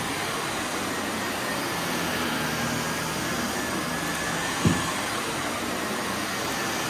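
Vacuum cleaner running steadily on a heavily soiled carpet, with one short low thump about two-thirds of the way through.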